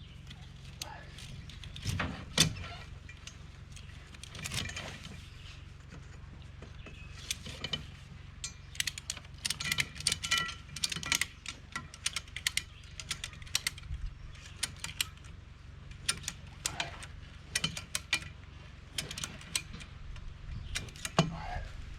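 Steel over-the-tire track links clinking and ratchets clicking as the two track ends are drawn together, a scatter of sharp metallic clicks that grows thickest in the middle and again near the end, over a low steady hum.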